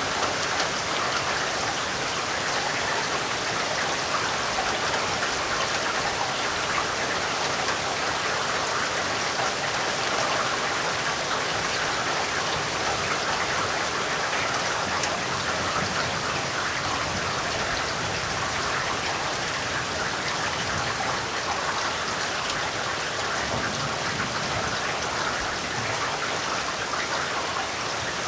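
Steady rain falling: a dense, even patter of drops at an unchanging level.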